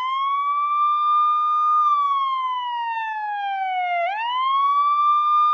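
A siren wailing in a slow cycle: it sweeps up and holds a high note, slides slowly down, then sweeps back up about four seconds in.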